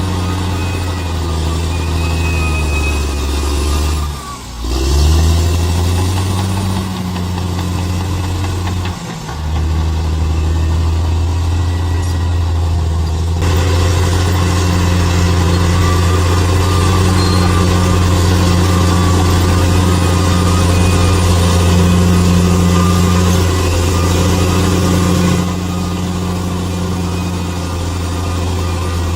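Bulldozer's diesel engine running steadily under work, with a brief dip and pick-up in engine speed about four seconds in. It runs louder through the middle of the stretch, then eases back near the end.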